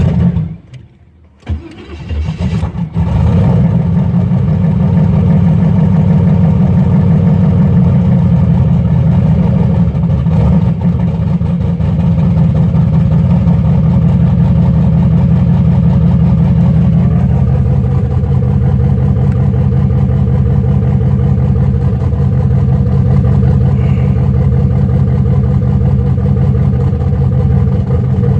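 Turbocharged LS V8 cranking and catching after a brief stumble, then running at a steady cold idle, its note shifting slightly partway through. The engine is on Microsquirt cold-start enrichment still being tuned in freezing weather, and is running rich.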